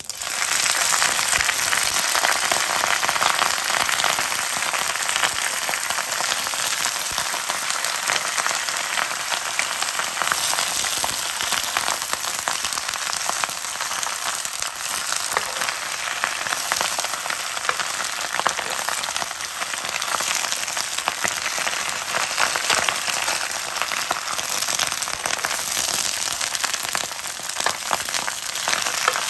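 Bok choy sizzling in hot oil in a frying pan, starting suddenly as the leaves go in and then crackling steadily as they are stir-fried.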